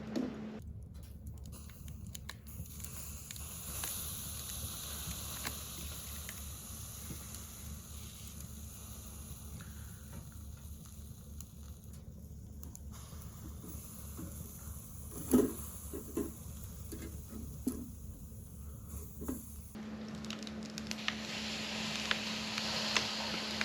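Food sizzling and crackling on a charcoal shichirin grill, with several sharp pops about fifteen to nineteen seconds in.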